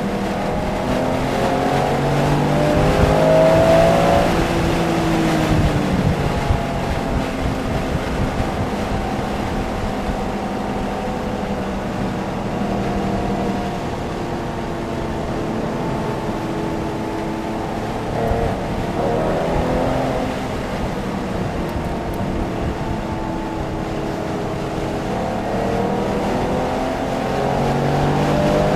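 Porsche engine at speed on a racetrack, its revs climbing and falling repeatedly as the car accelerates and slows through the corners, over steady wind and road noise.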